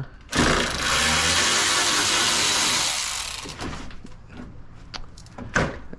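Power driver spinning out a Torx bolt from the car's core support, running for about three seconds before it stops, followed by a couple of light knocks.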